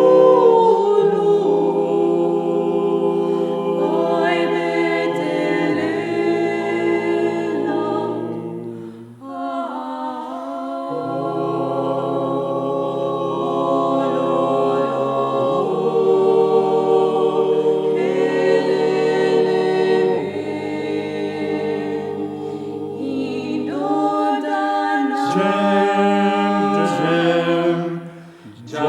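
Vocal ensemble singing a cappella in several parts, with a low bass line held under sustained chords; the voices pause briefly about nine seconds in and again near the end.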